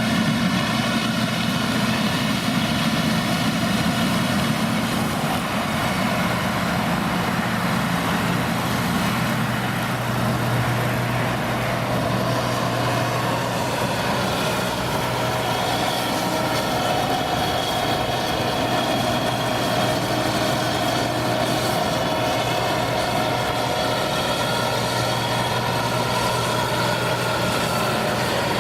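Diesel engine of heavy farm machinery running steadily, a continuous drone with no break.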